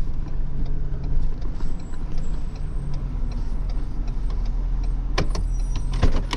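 Vehicle engine and road noise heard from inside the cab while driving, a steady low hum, with a few sharp clicks near the end.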